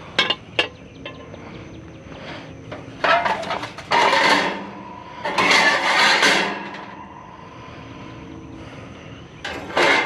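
Junk being handled and moved: two sharp knocks, then two longer bouts of rattling and scraping a second or so apart, and another clatter near the end.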